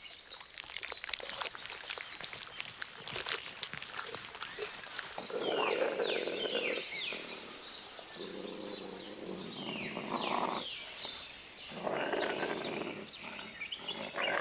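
Wolves at a kill, snarling and growling. The first few seconds are a run of sharp crackles and clicks; then, from about five seconds in, come repeated harsh snarls, four or five in a row.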